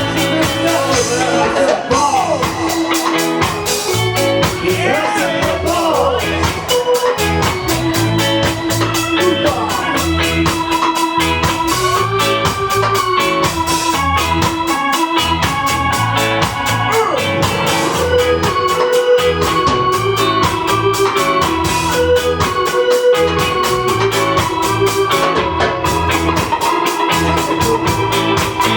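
Live ska band playing, with an organ prominent over a steady, even beat and bass line.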